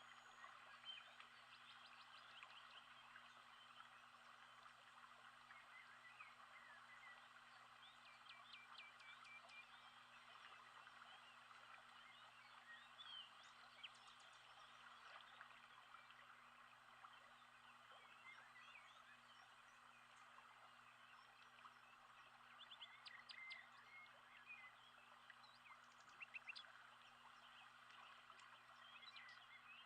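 Faint nature soundscape of many birds chirping in a dense chorus, with quick trills standing out now and then.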